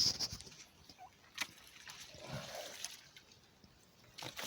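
Shallow stream water trickling and splashing around a phone held in it, with a few sharp knocks and scrapes from handling.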